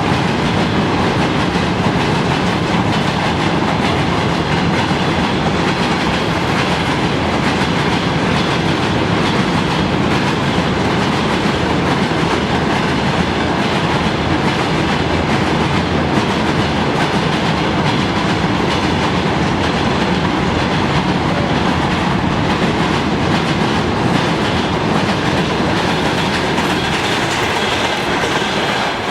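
Freight train wagons rolling across a railway bridge: a steady, loud rolling rumble and clatter of wheels on rails.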